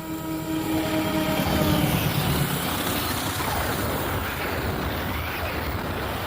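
Diesel-hauled passenger train passing close by. A steady pitched locomotive sound, most likely its horn, dips slightly and ends about two seconds in, while the noise swells into the loud, steady rush of the carriages going past.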